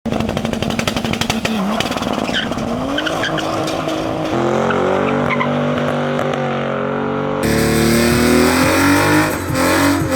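Car engines revving hard with tire squeal, in short clips that change abruptly twice, with the engine pitch held high after the first change.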